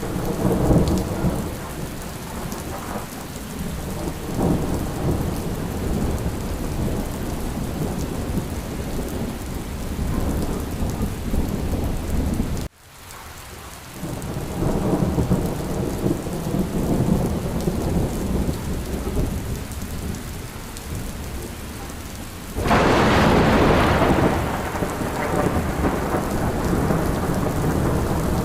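Steady rain with long rolling rumbles of thunder. The sound drops out abruptly for about a second halfway through, then the rain and rumbling return. A sharp, louder thunderclap breaks near the end and rolls away.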